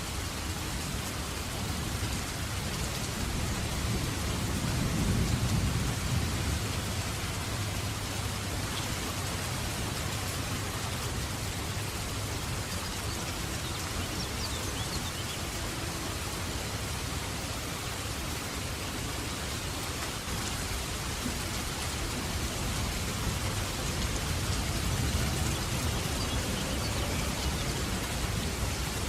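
Steady rain falling on a surface, with low rolling thunder that swells about five seconds in and again near the end.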